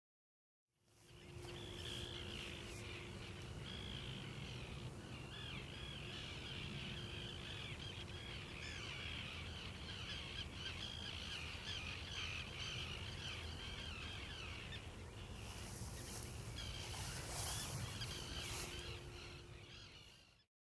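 A large flock of birds calling all at once in a dense, continuous chatter of short calls over a low outdoor rumble. It fades in about a second in and fades out at the end.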